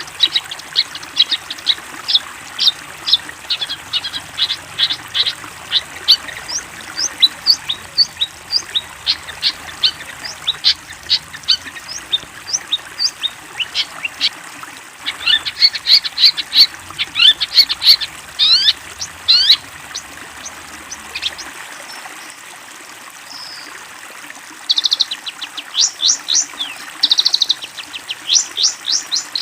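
Long-tailed shrike (cendet) song: a fast, loud string of sharp, high chirps and chattering notes, several a second, easing off for a few seconds late on and then coming back as rapid trills.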